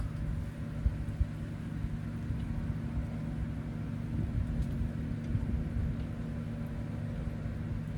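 Steady low engine drone with a constant hum, from machinery running across the lake.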